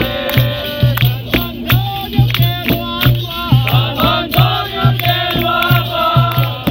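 Capoeira roda music: a group singing together over a steady low hand-drum beat, with sharp percussive clicks and rattles.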